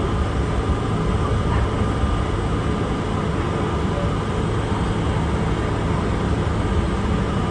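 Steady rumble of an R32 subway car running on the rails, heard from inside the car.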